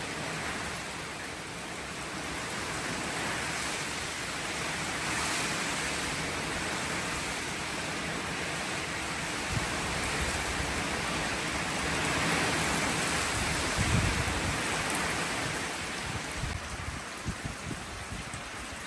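Steady rushing noise of water, swelling and easing slowly, with a few low bumps near the end.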